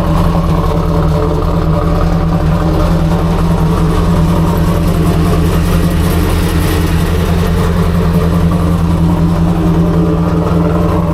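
Heads-and-cam 6.0-litre LS V8 in a 2001 Pontiac Trans Am WS6 idling loudly and steadily through its exhaust, just after a cold start from months of sitting.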